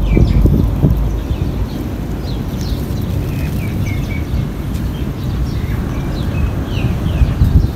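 Small birds chirping over and over in short calls, over a steady low rumble of outdoor noise.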